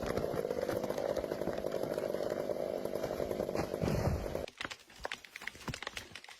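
Chainsaw engine running steadily at high revs, cutting off abruptly a little over four seconds in; scattered clicks and knocks follow.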